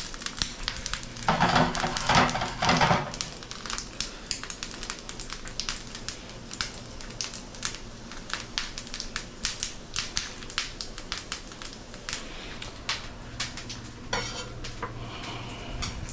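Dumplings pan-frying in a frying pan, sizzling with frequent irregular crackling pops. A louder clatter of noise comes about a second in and lasts a couple of seconds, and another burst of noise comes near the end.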